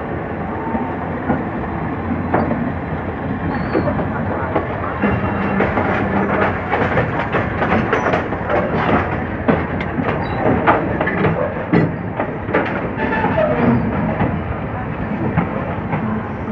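Passenger train rolling over the track with a steady rumble. About a third of the way in, the wheels start clattering over rail joints and points, a dense run of clicks and knocks that thins out near the end.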